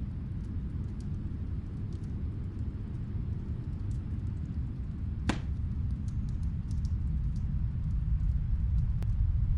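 Low, steady wind rumble of a snowstorm, swelling toward the end, with faint fireplace crackles and one sharper pop about five seconds in.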